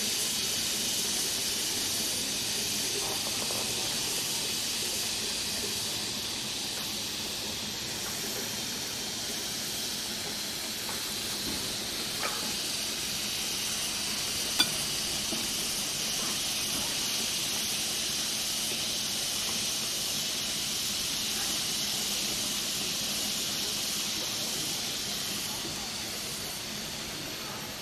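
Chicken satay sizzling as it grills over a fanned fire: a steady hiss, with two sharp pops, the louder one about halfway through.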